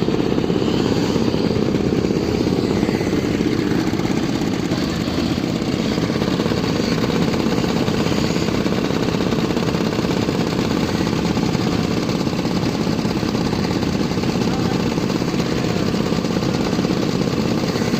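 Small vehicle engine running steadily and loud, with a rapid rattling pulse.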